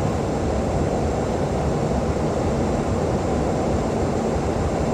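Steady rumble and rush of air and engine noise inside a Boeing 737-800 in flight.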